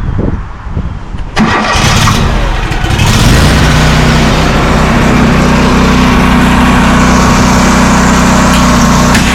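Bandit SG-40 stump grinder's engine being started: a low uneven rumble, then it catches about a second and a half in and climbs to a steady, loud run within a couple of seconds.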